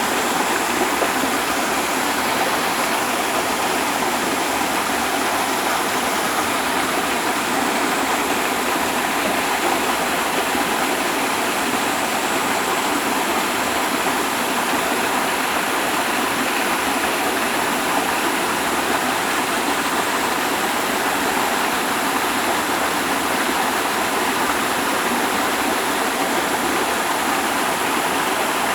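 Waterfall: water falling and rushing in a steady, loud, unchanging wash of noise.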